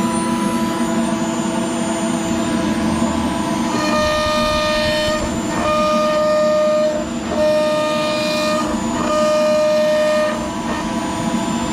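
CNC router spindle running with a 45-degree V-bit carving PVC: a steady whine, with a higher singing tone that cuts in and out in stretches of about a second from about four seconds in as the bit moves along the cut.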